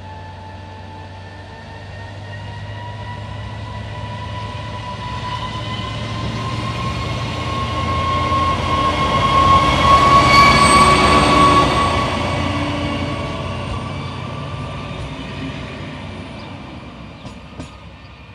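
A Czech Railways class 854 diesel railcar hauling coaches passes close by, its engine running with a steady whining tone. The sound swells to a peak about ten seconds in as the railcar and coaches roll past, then fades as the train moves away.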